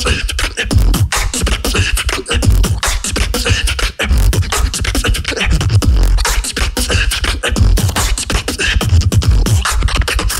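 Solo beatboxer performing a competition routine through a microphone and PA: deep, heavy bass kicks under a dense run of sharp snares, clicks and hiss-like hi-hats.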